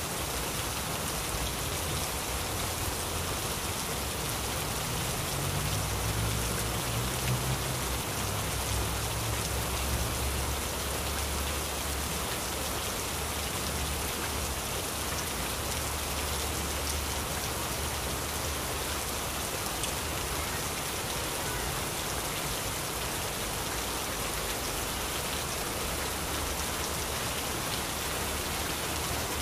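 Heavy rain falling steadily, with a low rumble swelling in the bass from about five seconds in and fading by about twenty seconds.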